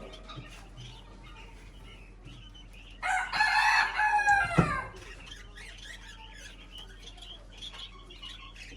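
A bird's single long, loud call lasting under two seconds, starting about three seconds in and ending in a sharp downward slide, over faint steady chirping of small cage birds.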